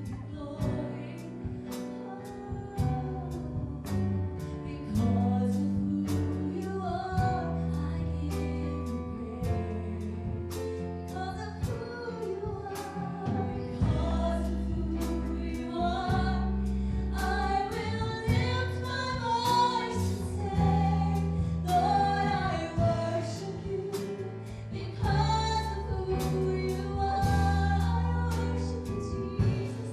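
Live worship band playing a gospel-style praise song, with singers carrying the melody over a steady drum beat and sustained bass.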